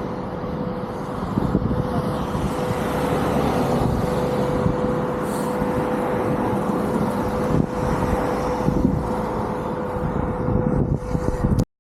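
A car driving, with steady engine and tyre rumble and a constant hum through it, cutting off abruptly at the very end.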